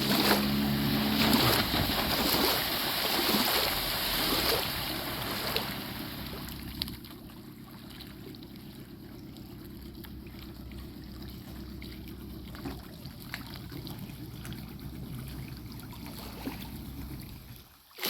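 Engine hum for about the first second, then a loud rush of water and wind for a few seconds, settling into a quieter steady low rumble.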